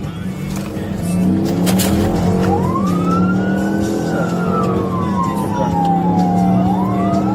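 Police car siren starts wailing about two and a half seconds in, rising and falling slowly, over the steady drone of a car engine at speed.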